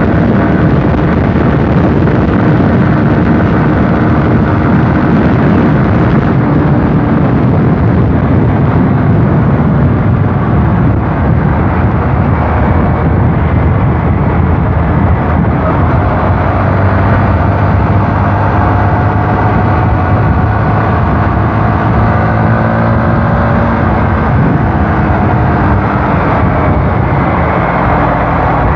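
A motor vehicle engine running on the move under a loud, steady rushing noise, its pitch drifting slowly up and down.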